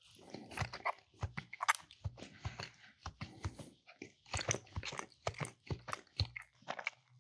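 A person chewing a bite of cheese close to the microphone: a run of short, irregular mouth clicks and smacks, several a second.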